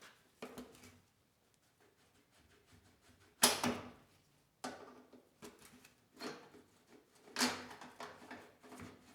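Intermittent metal clicks and knocks from pliers working the spring-loaded hinge pin out of a mower deck's side door, with the sharpest clack about three and a half seconds in.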